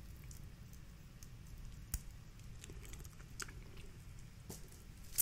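Close-up eating sounds: quiet chewing, with a few sharp little cracks and clicks as crawfish shells are picked apart by hand, the loudest near the end.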